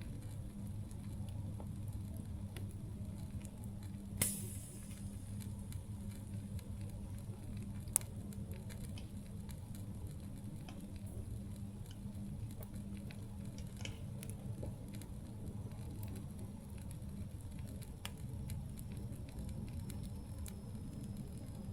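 Campfire crackling: scattered small snaps and pops over a steady low rumble, with one louder pop about four seconds in and a sharp snap about eight seconds in.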